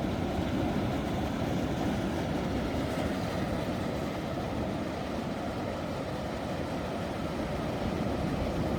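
Ocean surf making a steady, continuous rushing roar, heaviest in the low and middle range, with no single wave standing out.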